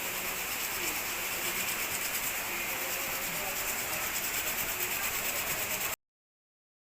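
Sandpaper rubbing back and forth in quick, even strokes on the metal around a small knife puncture in a refrigerator, scuffing the spot clean before it is sealed with steel epoxy. The scraping cuts off abruptly about six seconds in.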